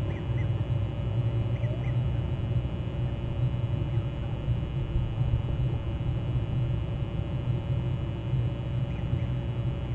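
Steady low outdoor rumble with a few faint, distant bird calls: two near the start, a pair about two seconds in, and one more about nine seconds in.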